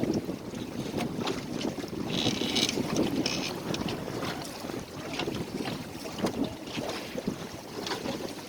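Water sloshing and splashing against the hull of a small 14-foot sailboat under way, with wind buffeting the microphone. Two brief higher-pitched sounds come about two and three seconds in.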